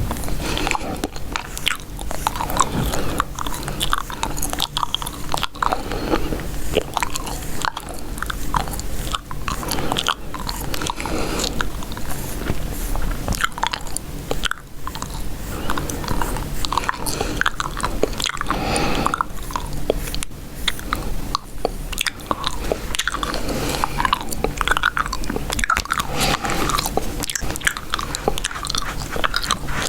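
Chewing gum close to the microphone, a continuous run of wet clicks and pops.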